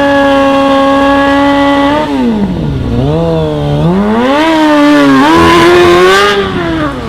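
Motorcycle engine held at high, steady revs for about two seconds, then the revs drop away and climb again twice. There is a rushing hiss over the second climb before the revs fall back near the end.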